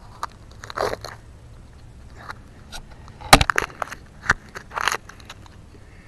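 Digging in yard soil and handling a dug-up rusty can: scattered crunches, scrapes and knocks, the sharpest knock a little past three seconds in.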